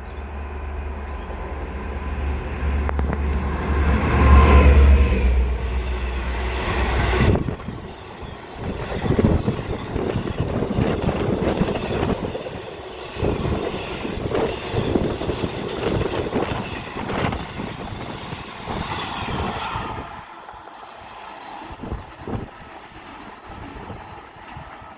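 A diesel train passing: a loud low rumble that peaks about four seconds in and stops suddenly after about seven seconds, followed by uneven clattering that dies down over the last few seconds.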